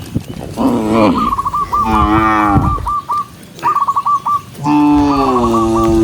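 Cattle mooing: three long moos, the last starting near the end and holding. Between them comes a run of short, quick, high chirping notes.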